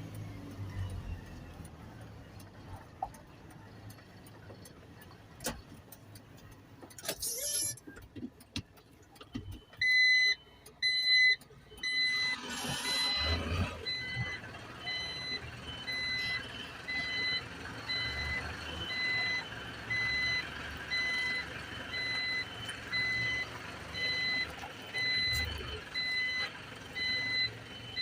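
Garbage truck's reversing alarm beeping steadily, about one and a half beeps a second, from about ten seconds in, over the truck's engine running. A brief hiss around twelve seconds in.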